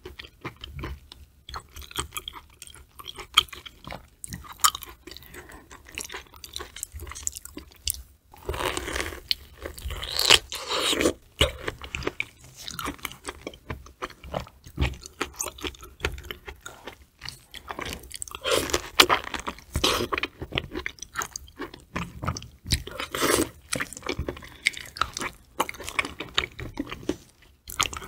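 Close-miked chewing and biting of raw fish sashimi (fatty tuna belly and swordfish belly): wet, sticky mouth sounds with many small clicks and crunches, louder about a third of the way in and again past halfway.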